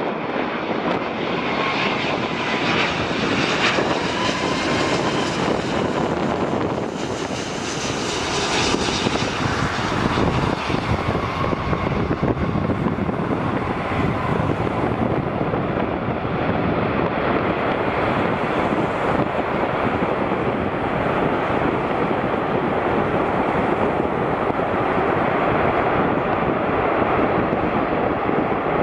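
Jet airliner engines passing: a steady rush of engine noise with a faint whine, the high hiss strongest in the first ten seconds and then thinning out as the noise carries on lower.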